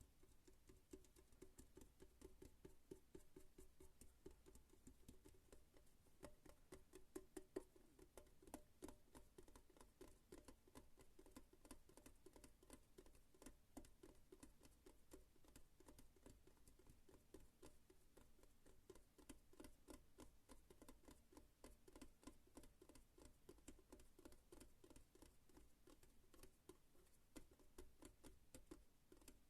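Faint, rapid fingertip tapping: many light taps a second, in a continuous patter.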